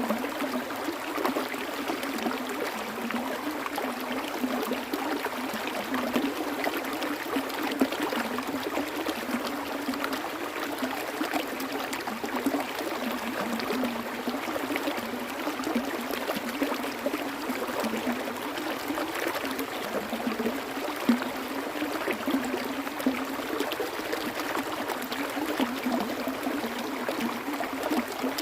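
Flowing water running steadily, with a continuous bubbling, gurgling texture.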